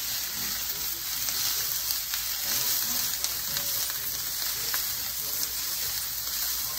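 Onions, carrot, garlic and bell peppers sizzling steadily as they sauté in a pan.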